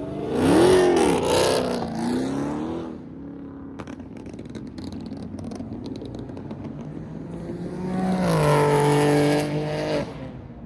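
A car engine revving hard twice: a quick rise and fall in pitch starting about half a second in, then a louder run held at high revs from about eight seconds in that cuts off shortly before the end.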